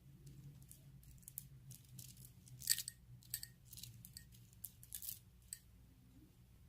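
A scattered series of light clicks and taps, the loudest about two and a half seconds in, over a faint low hum.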